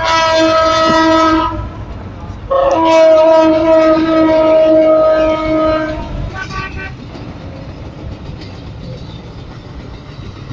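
Egyptian railway train horn sounding two long blasts, the second about three and a half seconds long, then a short fainter toot, followed by the steady rumble of the train rolling along the track.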